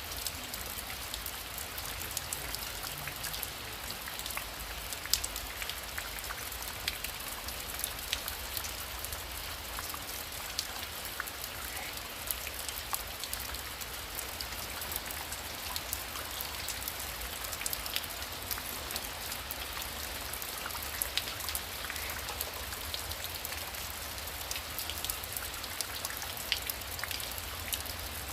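Heavy rain falling steadily, with many individual drops tapping sharply on a surface.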